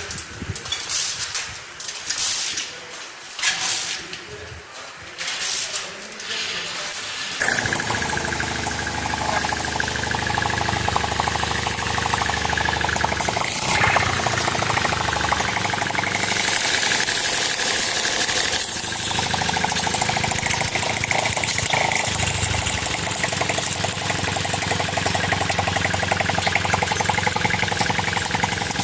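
Small engine of a dual-mode petrol and compressed-air engine rig: a few short irregular bursts, then it starts about seven seconds in and runs steadily.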